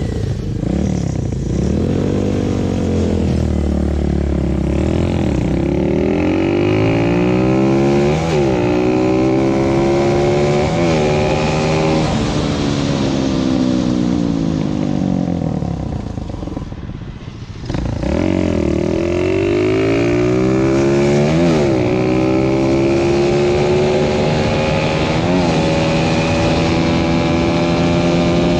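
Motorcycle engine under way, its pitch repeatedly climbing and falling as it is revved up and shifted. It eases off briefly about two-thirds of the way through, then pulls away again.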